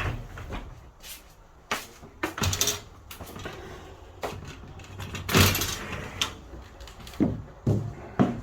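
A series of irregular knocks and clunks, like things being handled and set down, with one longer, louder rushing clatter about five seconds in.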